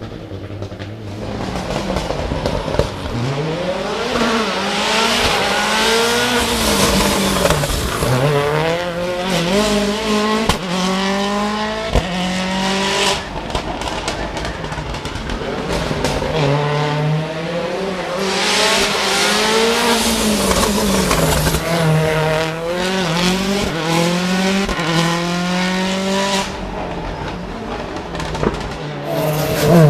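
Hill-climb racing car engine at full throttle, its pitch climbing and dropping back over and over as it shifts gears. It eases off about halfway, then builds again.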